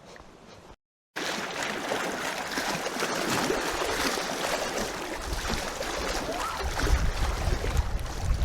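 Lake water splashing and sloshing as a dog flounders in it, starting abruptly about a second in, with a low rumble building in the second half.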